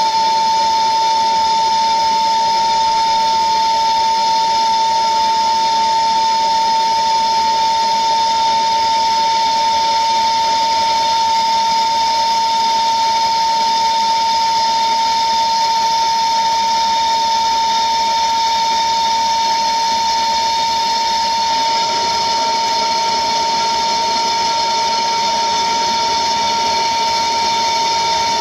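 Gas blowtorch flame burning with a steady hiss and a loud, unwavering whistle while it heats a fluxed pipe fitting for soldering; the whistle's pitch steps up slightly about 22 seconds in.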